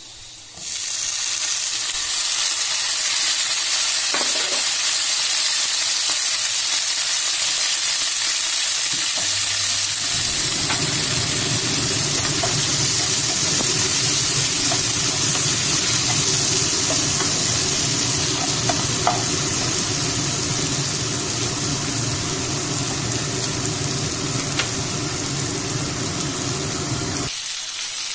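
Onions and chopped tomatoes frying in oil in a non-stick pan, a steady sizzle that starts about a second in. About ten seconds in it grows fuller and lower, with a few faint clicks over it.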